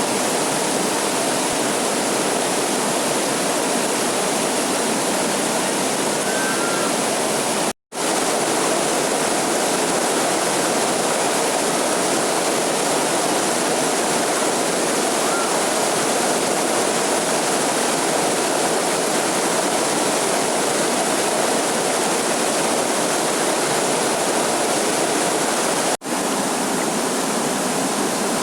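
Steady rush of a waterfall, cut to silence for an instant about eight seconds in and again briefly near the end.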